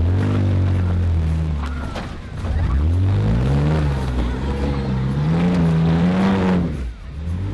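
Off-road Jeep engine revving up and down under throttle. The revs drop away briefly about two and a half seconds in, climb again, and cut off sharply near the end.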